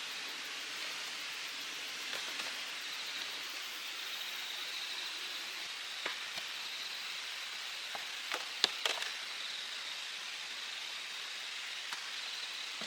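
A valley stream rushing steadily, with insects trilling in a high, fine pulsing tone. A few sharp clicks break in about six seconds in and again around nine seconds in.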